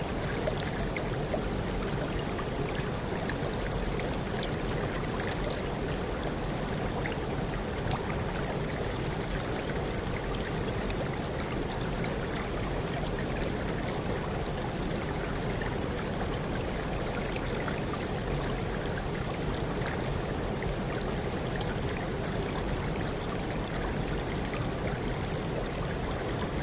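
Waterfall water rushing and splashing steadily, an even, unbroken roar of falling water.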